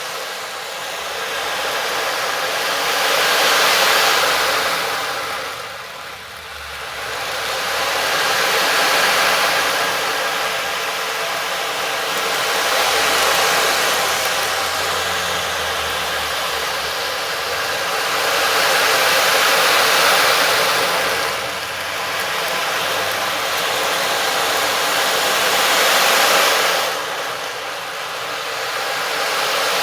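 A rushing, hiss-like noise that swells and fades in slow, surf-like surges several seconds apart.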